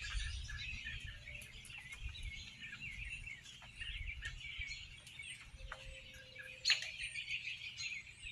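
A large flock of birds chirping and calling all at once, a dense chatter of many overlapping short calls, with one sharp click about six and a half seconds in.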